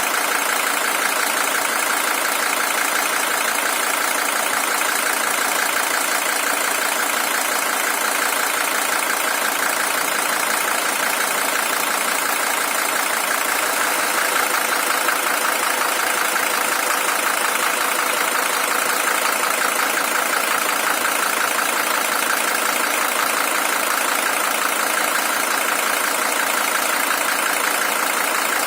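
Mercedes-Benz W123 300TD's OM617 five-cylinder diesel engine idling steadily with an even, rapid diesel clatter. It is a high-mileage original engine at 620,000 km.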